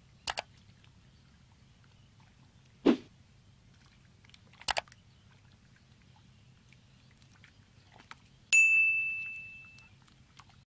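Added subscribe-animation sound effects over a faint background hum: a quick double mouse click, a loud low thump about three seconds in, another double click, then a loud bell-like ding near the end that rings out and fades over more than a second.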